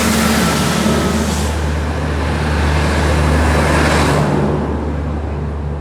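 WAP-5 electric locomotive and its express coaches running through a station on arrival: a steady low hum with a rushing rumble of wheels on rail. It is loudest about four seconds in, then eases.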